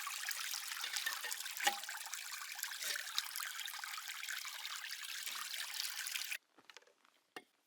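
Cold water pouring in a steady stream over a spoon being rinsed clean. The flow cuts off suddenly about six seconds in, followed by a few light clicks.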